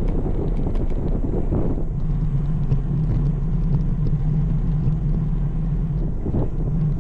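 Riding rumble on a road bike's camera microphone: steady wind and road noise, with a steady low hum joining about two seconds in.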